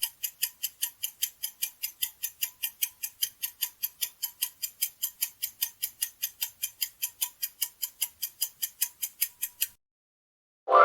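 Clock-tick sound effect counting down a quiz timer: a steady ticking at about four ticks a second that stops about a second before the end, followed by a bright chime at the very end.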